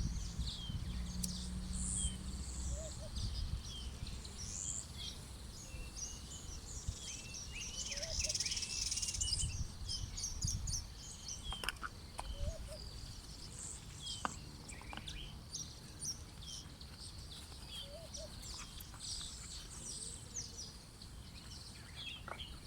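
A chorus of many small birds chirping and trilling, busiest about a third of the way through, over a steady low rumble.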